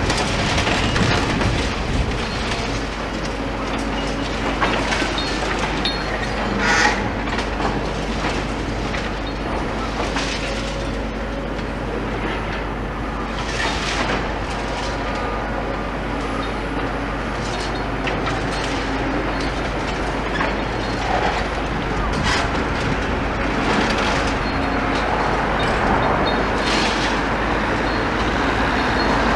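Demolition excavator running steadily while its attachment chomps and crushes small bits of concrete, with sharp cracks and crunches every few seconds.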